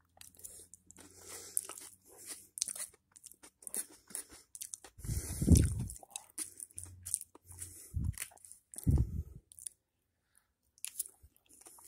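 A man chewing chicken with his mouth close to the microphone: irregular wet crunches and mouth clicks, with a few short, louder low sounds about five, eight and nine seconds in.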